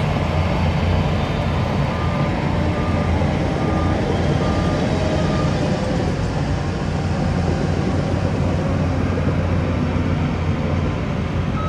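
Heavy diesel construction machinery running steadily at a low, even pitch. A faint reversing alarm beeps several times at an even pace from about two seconds in to just past five seconds.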